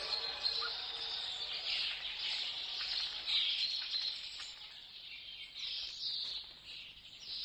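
Birds chirping, many overlapping high twitters, thinning out a little past the middle.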